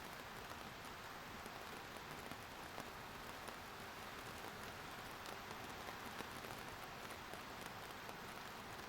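Steady rain falling, an even hiss with scattered individual drop ticks on surfaces.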